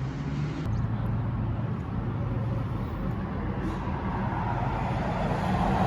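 A motor vehicle's engine running steadily with road noise, changing abruptly a little under a second in and getting a little louder near the end.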